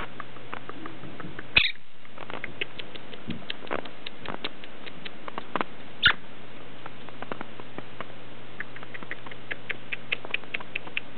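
Quaker parrot moving about and nibbling under bed covers: a scattered run of small, sharp clicks and ticks, with two louder clicks about a second and a half in and about six seconds in.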